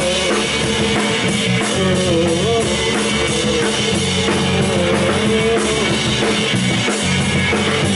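Live rock band playing an instrumental stretch of a song: drum kit, electric bass and electric guitars, with a melodic guitar line over a steady drum beat.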